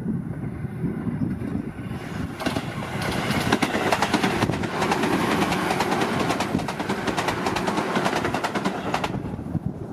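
Tobu 10030 series electric commuter train passing close by, its wheels clattering rapidly over the rail joints. The clatter builds about two seconds in and drops away sharply near the end as the train moves off.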